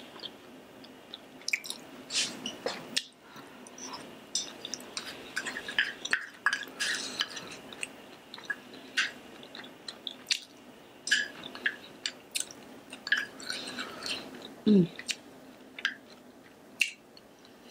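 Close-miked chewing of food, with frequent wet smacks and sharp clicks from the mouth. About fifteen seconds in comes a short falling hum, the loudest sound in the stretch.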